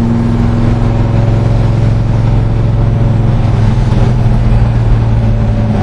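1966 Chevelle SS's freshly rebuilt 396 big-block V8 running steadily while the car cruises, its drone holding an even pitch with road noise underneath.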